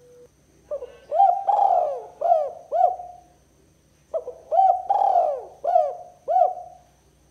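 Spotted dove cooing: two phrases a little over a second apart, each a run of five or six short, rounded coos. This is the 'kuk 2' type of call, played to lure rival doves.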